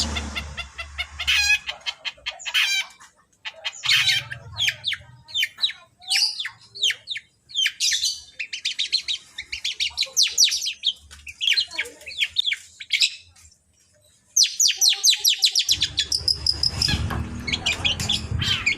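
Long-tailed shrike (cendet) singing fast runs of high chirps and trills, with a short pause about two-thirds of the way through, before it resumes with a low rumble underneath.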